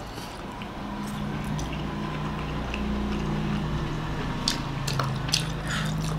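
Close-miked chewing of soft steamed egg momos, with wet mouth sounds and a low steady hum underneath. A few sharp clicks come near the end.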